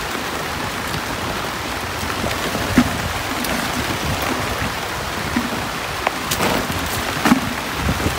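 Heavy rain falling steadily, with a few sharper taps now and then.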